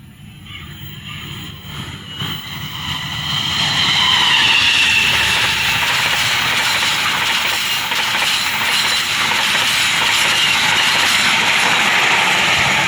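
Train passing on the line: its noise builds over the first few seconds, holds steady while it goes by, and starts to fade near the end.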